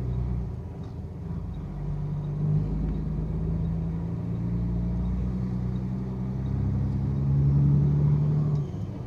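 Semi-truck engine droning steadily while driving, with road rumble. The drone grows louder in the last few seconds, then drops off suddenly just before the end.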